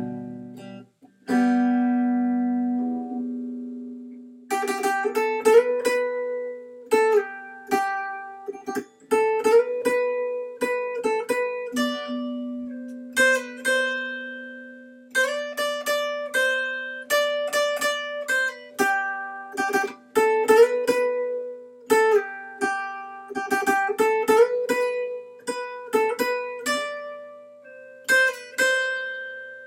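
Acoustic guitar playing an instrumental break. A chord rings out about a second in, then from about four seconds a melody of single picked notes plays over a sustained low note.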